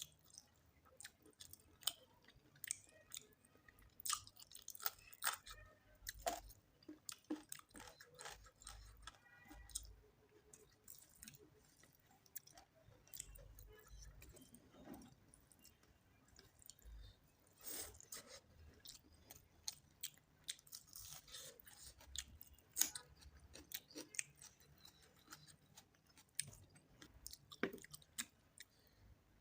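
A person chewing a mouthful of rice and chicken curry close to the microphone, with wet mouth sounds and frequent irregular crisp clicks and crunches.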